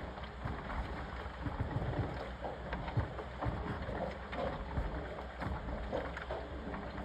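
Washing machine running, with a steady low rumble and water churning and sloshing irregularly inside the drum.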